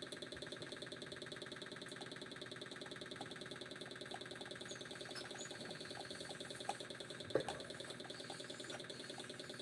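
Hair dryer's small brushed motor running steadily on newly fitted, hand-filed carbon brushes during a test run: a steady hum with a fast, even pulse. A couple of light knocks about seven seconds in.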